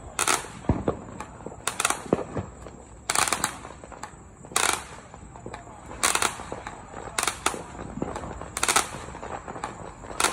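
Fireworks going off one after another: a string of sharp bangs, roughly one a second and unevenly spaced, each trailing off briefly.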